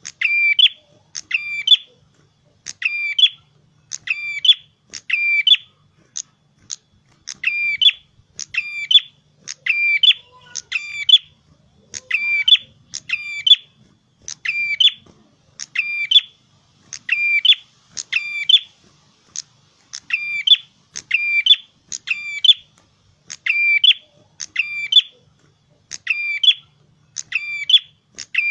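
Red-headed prenjak (prenjak kepala merah) singing vigorously: short, shrill, sharply repeated chirping phrases, about one to two a second without a break.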